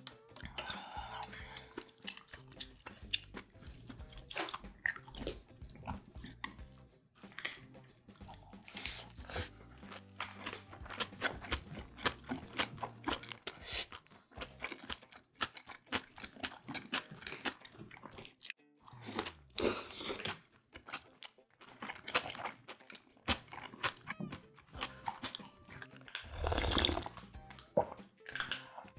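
Close-miked chewing and crunching of kimbap rolls, with many small irregular wet clicks and crackles. About two seconds before the end comes a louder slurp of spinach doenjang soup drunk straight from a steel bowl.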